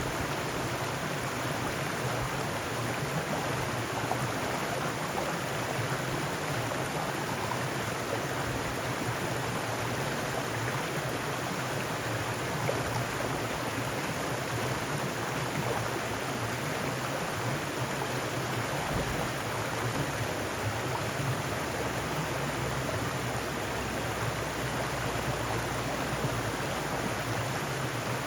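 Mountain stream running over rocks, a steady rushing and burbling of water without change.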